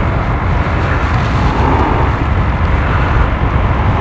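Strong wind buffeting the microphone: a loud, steady, fluttering low rumble.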